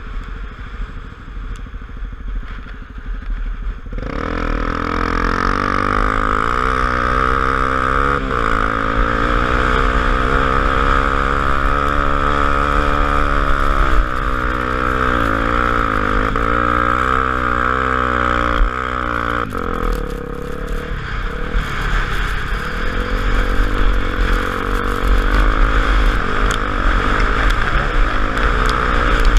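Honda XR250 Tornado's single-cylinder four-stroke engine running under way, its revs rising and falling repeatedly, with wind rushing past. It gets louder about four seconds in.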